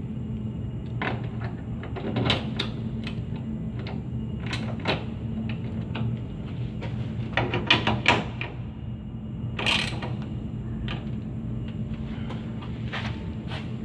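A steady low hum with scattered clicks and knocks of hard objects being handled, thickest about two-thirds of the way through, with a louder sharp knock near the end.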